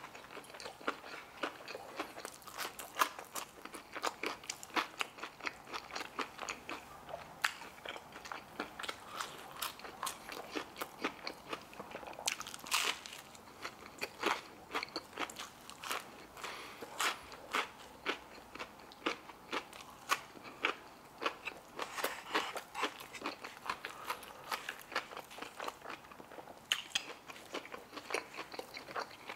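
Close-miked chewing of crispy fried chicken and crinkle fries: a dense, irregular run of sharp crunches, several a second.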